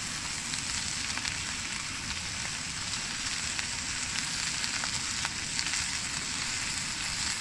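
Paneer, green capsicum and onion sizzling steadily in a steel pan over a gas stove. A slotted metal spatula turning it makes a few light clicks and scrapes against the pan.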